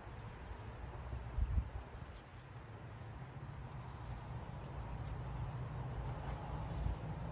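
Low rumbling noise with a thump about a second and a half in, and short high chirps of small birds in the background.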